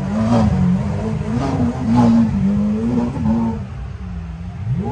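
A car engine running and being revved, its pitch rising and falling repeatedly.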